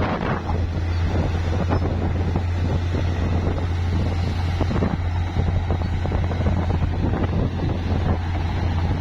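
Bulldozer's diesel engine running steadily with a deep constant drone, with irregular knocks and rattles over it and wind buffeting the microphone.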